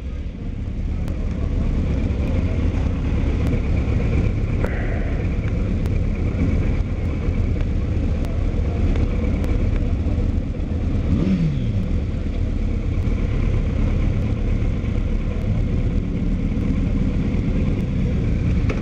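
Motorcycle engine running steadily, loud and low, swelling up over the first two seconds. About eleven seconds in there is a short glide down in pitch.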